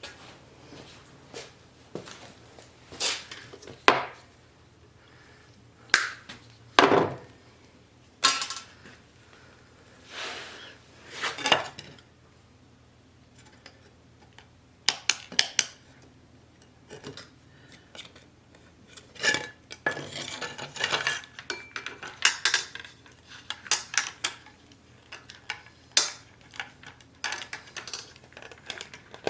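Metal parts and hand tools clinking and clattering as they are handled, in irregular knocks and short rattles with pauses between.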